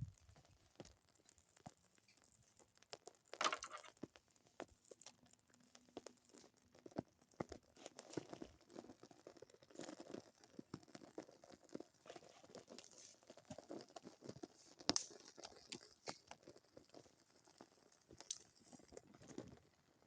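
Small wood fire of kindling crackling faintly, with scattered small pops and rustles and a couple of sharper snaps.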